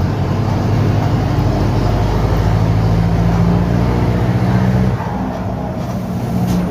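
Mercedes-Benz OF-1721 bus diesel engine running under load, heard through a holed, leaking exhaust. The engine note eases and drops in level about five seconds in, then picks up again near the end.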